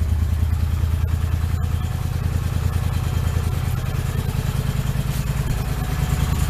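Polaris Sportsman 850 ATV's twin-cylinder engine idling steadily just after a cold start, warming up.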